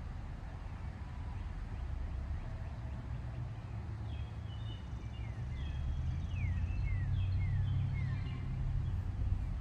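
A bird singing, a quick run of short, falling whistled notes that starts about four seconds in and lasts some four seconds, over a low steady rumble.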